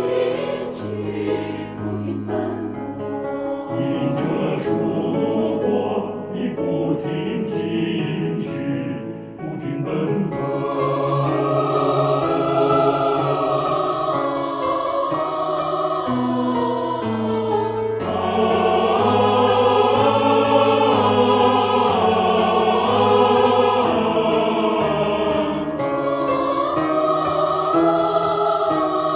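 Mixed choir singing in sustained, wordless-sounding harmony with piano accompaniment. The opening seconds are mostly piano notes over low held tones; about ten seconds in the choir swells in with long held chords, growing fuller near the middle.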